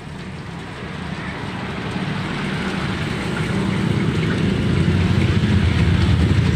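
Street traffic: a low engine rumble that grows steadily louder, as of a motor vehicle drawing near.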